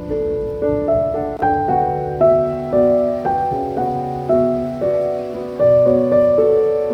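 Piano music: a slow melody of single notes over low chord notes, each note struck and then fading, about two notes a second.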